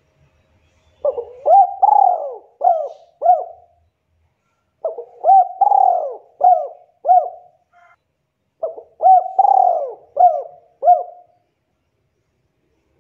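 Spotted dove (tekukur) cooing. It gives three phrases of about five soft, low, hooting notes each, with a pause of about a second between phrases.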